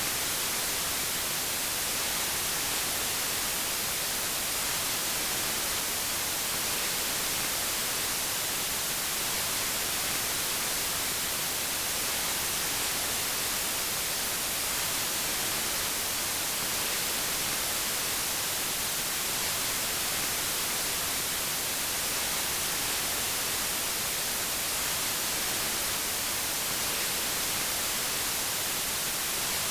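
Synthetic white noise: a steady, even hiss that does not change, strongest in the high frequencies.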